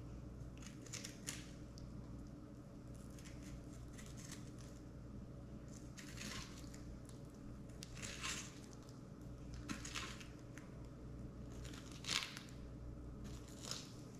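Fillet knife slicing a spotted seatrout on a cutting board: faint short scraping and crunching strokes every second or two as the blade works over the rib bones, with a steady low hum underneath.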